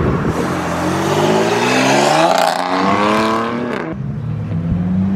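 Car engine revving hard, its pitch climbing steadily for about three and a half seconds, then letting off abruptly and settling to a lower, steady note.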